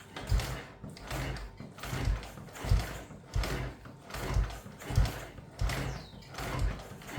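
1951 Panther M100's big single-cylinder engine being turned over on the kickstarter again and again without firing, about ten strokes, each a low thump with mechanical clatter. The petrol is still off: the engine is being kicked through cold to loosen the piston and spread the oil after months laid up.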